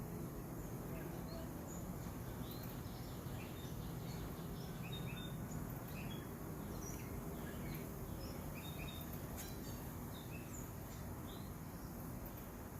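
Small songbirds chirping: many short, high chirps scattered throughout, over a steady low rumble of background noise.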